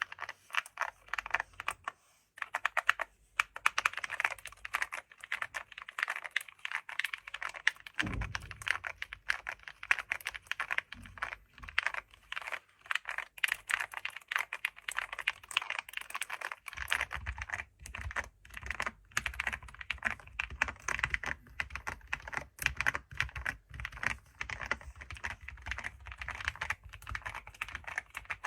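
Computer keyboard typed on quickly, a dense run of key clicks with a brief pause about two seconds in.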